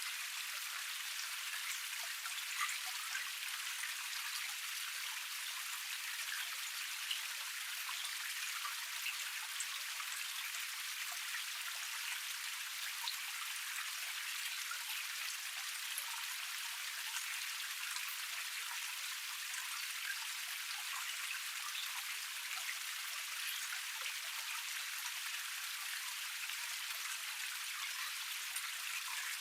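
Small cascade of water splashing and trickling over a forest stream's step: a steady hiss dotted with countless little droplet splashes.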